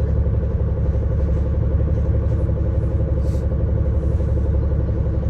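Bus engine running at a steady speed, a deep, even drone heard from on board.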